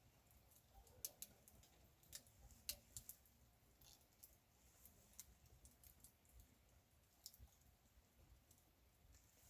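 Faint, sparse crackling of a small wood campfire: irregular sharp pops, a few a second at most, over a quiet hiss.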